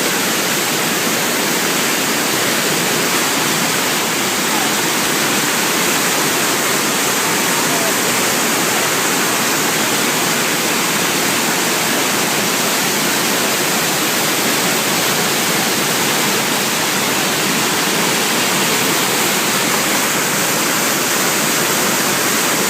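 Loud, steady rush of water pouring down a waterfall, an unbroken roar of spray and falling water.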